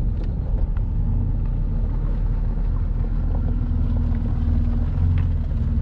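Motor vehicle engine running steadily while driving, heard from on board, with a low hum and a steady tone above it.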